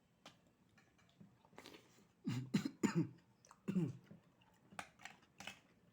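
A person coughing in a few hard bursts, about two seconds in, after food went down the wrong way while eating. Small mouth clicks come before and after the coughs.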